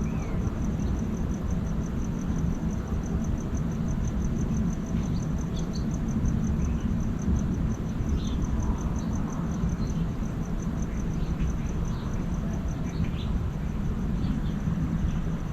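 Outdoor lake-side ambience: a steady low rumble under a high, thin trill pulsing about three or four times a second, with scattered short bird chirps.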